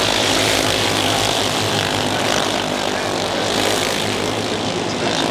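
Racing engines running, a steady loud mechanical noise with a hiss on top.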